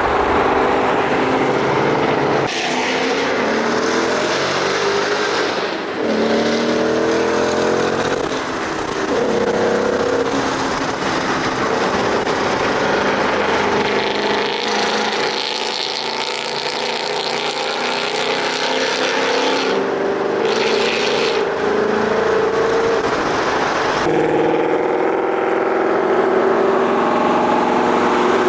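Supercharged Ford Mustang 5.0 V8s accelerating hard, engine pitch climbing through the gears. The sound changes abruptly several times, as between cut-together clips.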